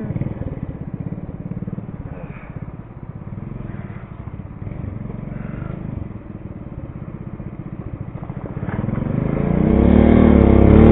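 Mini bike's small engine running, fading as the bike moves away, then growing louder again near the end with rising and falling revs as it comes back.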